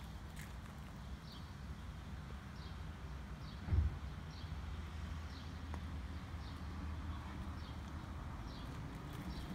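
Outdoor ambience: a bird repeating a short, high, falling chirp about every two-thirds of a second over a low steady rumble, with a single thump about four seconds in.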